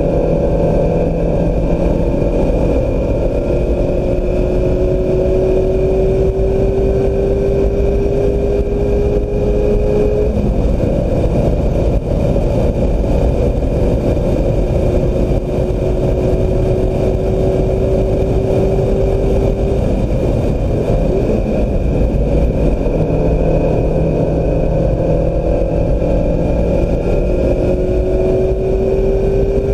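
2016 Mazda MX-5 Miata's four-cylinder engine under hard track driving, its pitch climbing steadily for several seconds and falling away twice, about ten and twenty seconds in, then climbing again near the end, over heavy wind and road noise.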